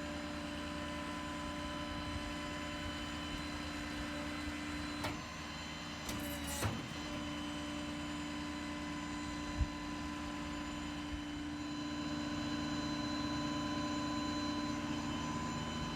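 A steady hum holding several fixed pitches, broken by a brief clatter of clicks between about five and six and a half seconds in and a single sharp knock about nine and a half seconds in.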